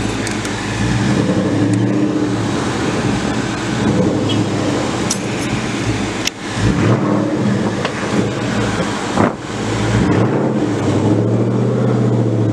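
Car engine running at low revs as the car rolls slowly, heard from inside the cabin. The steady engine note dips briefly twice, at about six and nine seconds in.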